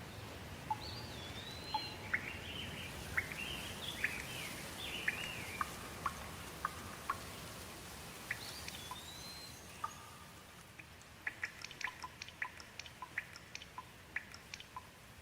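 Steady rain falling, with birds chirping over it through the first half. In the second half the rain thins a little and a quick run of sharp drips dominates.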